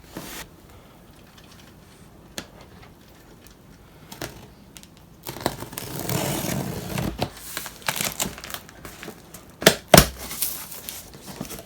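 Cardboard box of filament being opened and handled: after a few quiet seconds with light clicks, packaging rustles and crinkles for a few seconds, then a few sharp knocks near the end as the boxes inside are handled.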